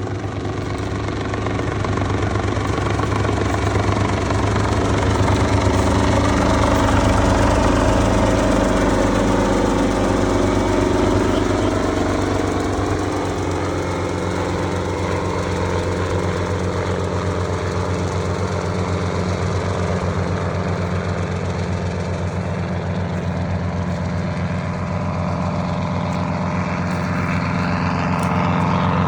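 Helicopter close by, its rotor beating fast and steadily over the engine. It grows louder over the first several seconds, then holds steady.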